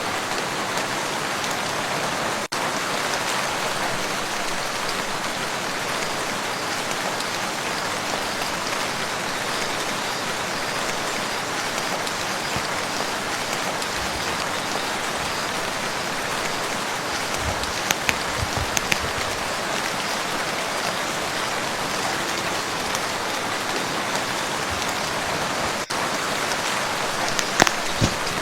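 Steady rain falling on a lake surface, an even hiss, with a few louder individual drops splashing near the end.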